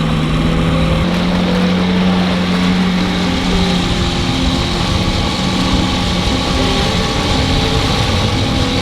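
Gasoline outboard motor on an inflatable dinghy running steadily under way, its engine note stepping up a little about a second in.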